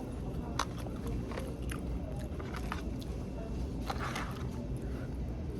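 Close-up biting and chewing of hard-fried, crunchy fish, with a few sharp crunches, over a steady low hum.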